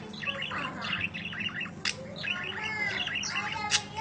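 Budgerigar warbling: a continuous rapid stream of chirps, chattering notes and short whistles, with a few sharp clicks mixed in.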